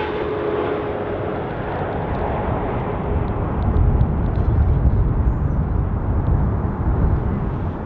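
Swiss Boeing 777-300ER's twin GE90 turbofans passing and moving away after a landing approach: a dense jet roar whose falling whine and upper hiss fade. A deep rumble swells from about three and a half seconds in to near the end.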